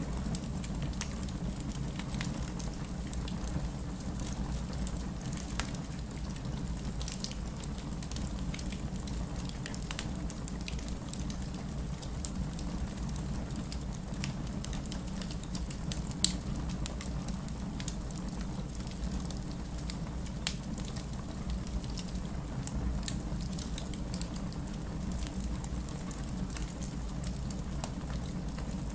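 Wood fire burning with a steady low rumble and scattered crackles and pops of splitting wood; one sharp, loud pop comes about halfway through.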